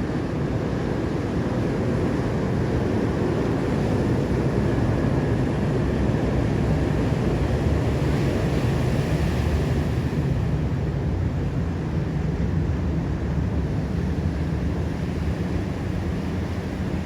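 Ocean surf breaking and washing in, with wind on the microphone. The wash builds to a peak about nine seconds in, then eases.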